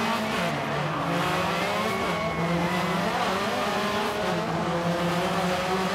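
Subaru rally car engine revving hard as the car accelerates, its pitch rising and falling several times through gear changes.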